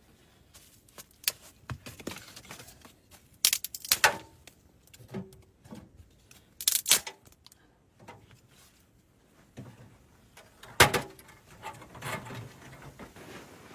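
Handling noises in a small room: scattered knocks, clicks and rustles, the sharpest knock about eleven seconds in.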